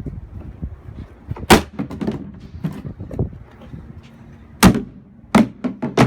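Hard blows against an injection-molded plastic motorcycle saddlebag in a strength test. A loud bang comes about a second and a half in and three more near the end, with lighter knocks and rattles between them.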